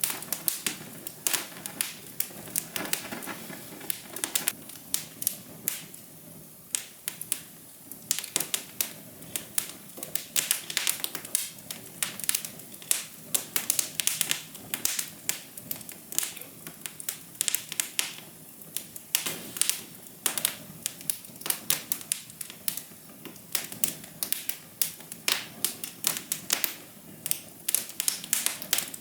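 Wood fire crackling: dense, irregular sharp pops and snaps over a low steady hiss.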